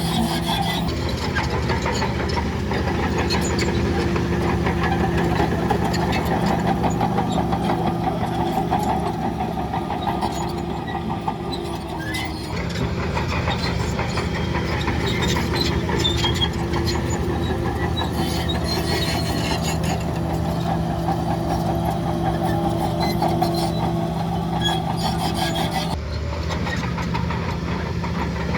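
Diesel engine of heavy earthmoving machinery running steadily at a constant pitch, with scattered metallic clanks and rattles. The engine note eases briefly about twelve seconds in and again near the end.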